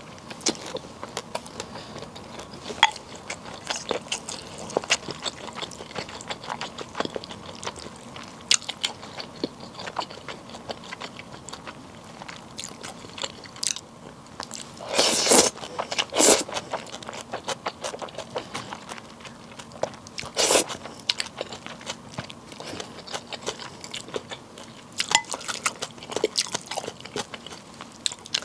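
Close-up eating sounds of a person chewing bibim naengmyeon (spicy mixed cold noodles): a steady run of small wet chewing clicks and crunches, with a few louder bursts of eating noise around the middle.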